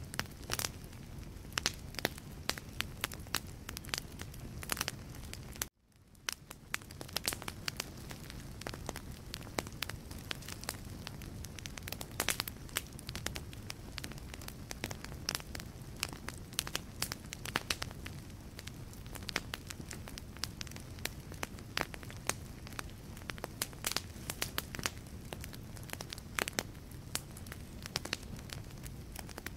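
Wood fire in a fireplace crackling: many sharp pops and snaps from burning logs over a low, steady rumble of flame. About six seconds in, the sound cuts out for an instant and fades back up.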